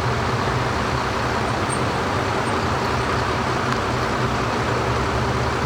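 Steady motor vehicle and road traffic noise, with a constant low engine hum.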